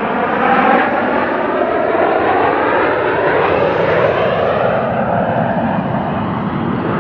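Blue Angels F/A-18 Hornet jets flying past, a loud, steady jet-engine roar whose tone slowly slides as the aircraft move, easing off slightly near the end.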